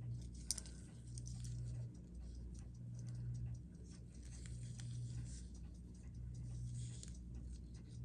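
Soft, rapid ticking of a timepiece over a low hum that rises and drops in blocks every second or two, with one sharp click about half a second in.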